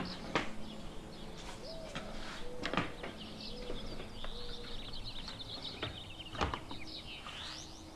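A few sharp clicks and knocks from a plastic bumper close-out panel being handled and pulled from its mounts, over faint chirping of birds.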